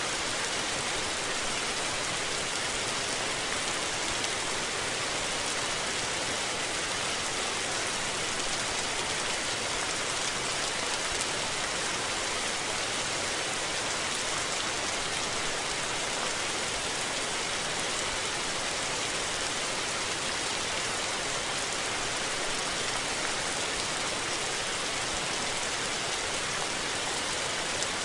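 Steady rain falling, an even dense hiss of many drops without a break.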